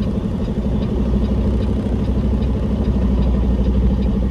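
Peterbilt semi-truck's diesel engine running steadily at low revs as the truck creeps forward a short way.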